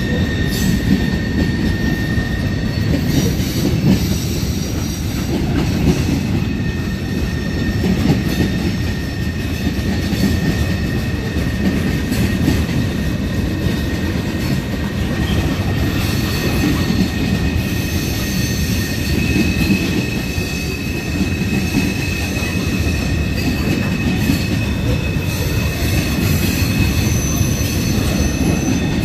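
Freight train cars, boxcars and covered hoppers, rolling steadily past: a continuous rumble of steel wheels on the rails with a thin, high wheel squeal, one pitch in the first half giving way to a higher one in the second half.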